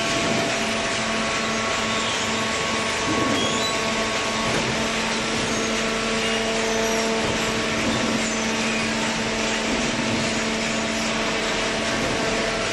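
Paper baler machine running: a steady mechanical noise with a constant hum and a few higher steady tones, without pauses.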